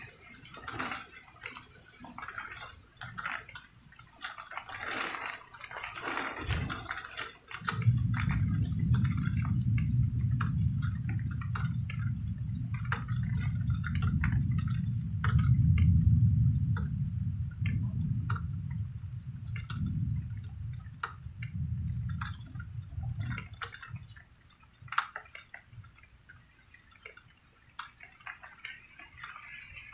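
Raindrops dripping in scattered ticks, with a long low rumble of thunder that comes in suddenly about a quarter of the way through, swells in the middle and dies away about two-thirds of the way through.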